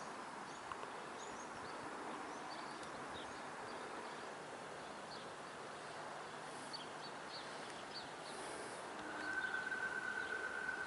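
Faint open-air background with scattered small bird chirps. About nine seconds in, a steady high-pitched whine sets in and grows louder: the rails singing as a train approaches the platform.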